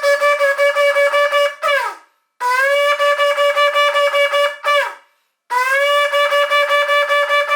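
Shofar (ram's horn) blown in three long blasts, each held on one note with a rapid pulsing and ending in a downward slide of pitch.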